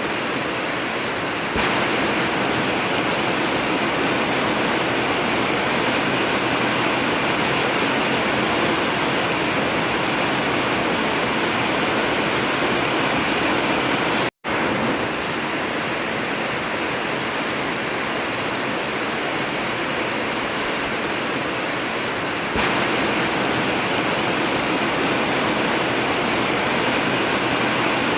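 Heavy rain falling steadily on an old tin (zinc) roof, a dense, even hiss with no thunder. It cuts out to silence for a split second about halfway through.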